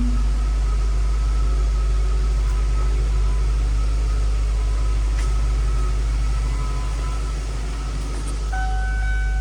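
A 2002 Ford Thunderbird's 3.9-litre V8 runs at a steady idle. A steady high tone joins near the end.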